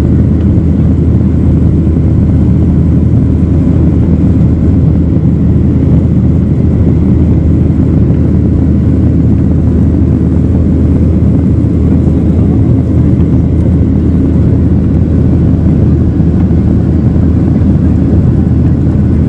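Steady, loud, low engine and air noise inside the cabin of a jet airliner in flight, even throughout with no changes.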